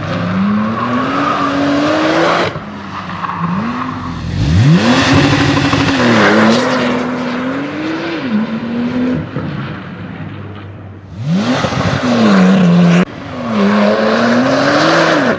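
Porsche 991 Turbo S's twin-turbo flat-six revving hard, its pitch climbing and dropping again and again as the car powerslides, with tyre squeal. The sound jumps abruptly a few times where separate clips are cut together.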